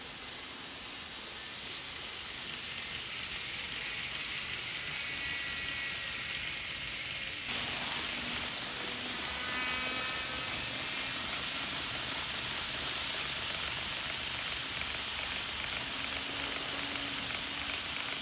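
N gauge model Shinkansen running on the layout track: a steady hissing rolling noise from the wheels and track, with a faint electric motor whine. It grows louder over the first few seconds and steps up suddenly about seven seconds in.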